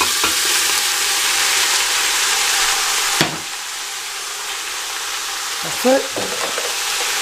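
Beef and onions sizzling in olive oil in a pressure cooker as soaked white haricot beans are poured in. There is a sharp knock about three seconds in, after which the sizzling is quieter.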